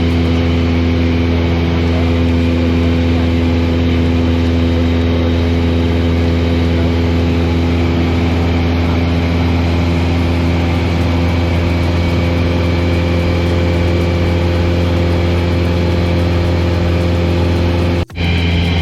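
Single-engine light aircraft's piston engine and propeller heard from inside the cabin, a loud steady drone at an unchanging pitch. It cuts out abruptly for an instant near the end.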